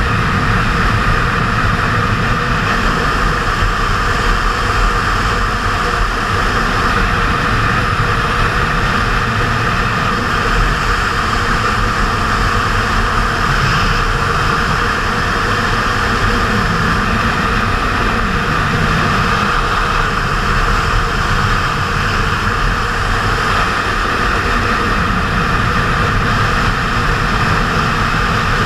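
Kawasaki Z750R motorcycle on the move: its inline-four engine runs under a loud, steady rush of wind on the camera, with slight rises and falls in engine pitch.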